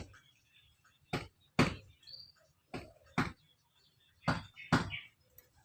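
Sharp, short strokes of a hand tool working cage-spoke stock by hand, coming in pairs about half a second apart, six in all.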